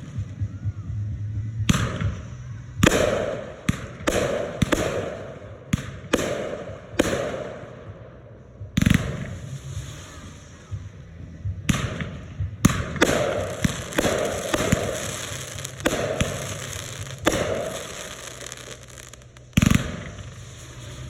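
Red Apple consumer fireworks going off in an irregular barrage of about twenty sharp bangs, some in quick clusters, with crackling and hissing between the reports.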